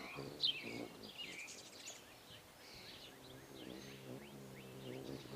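Small birds chirping and calling in quick short notes, with a low hum underneath that is strongest in the second half and one sharp click about half a second in.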